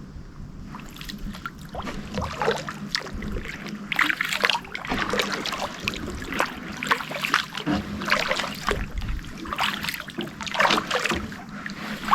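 Kayak paddle strokes: the blades dip and splash into the water in a steady rhythm, about one stroke every second or so.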